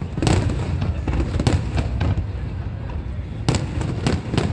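Aerial fireworks bursting: several sharp bangs, a few close together about a second and a half apart and a cluster near the end, over a continuous low rumble of booms.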